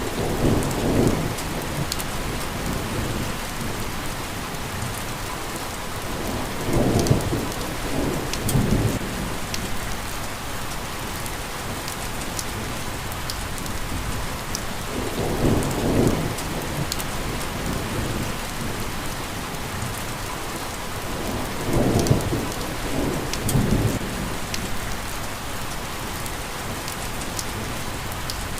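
Steady rain pattering on a surface, an even hiss with scattered sharp drop ticks. A deeper swell rises and falls for a second or two about every six or seven seconds.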